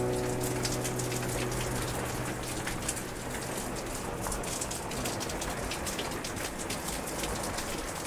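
Steady rain falling into a puddle, with many separate drop splashes heard through the hiss. A low held tone fades out over the first two seconds.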